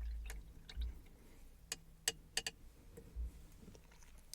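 Sharp, light clicks and taps from handling painting supplies, about eight of them at irregular spacing, with a low handling rumble in the first second.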